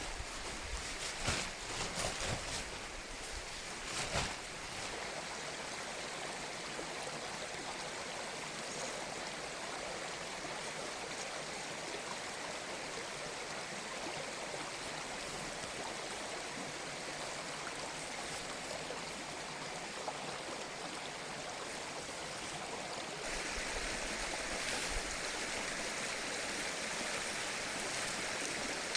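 Mountain stream flowing steadily. A few short knocks or thumps in the first four seconds, and the rush of water grows louder about 23 seconds in.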